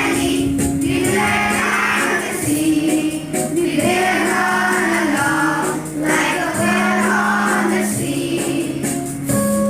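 A song: voices singing a wavering melody over long held low notes that change every second or two, with a bright jingling on top.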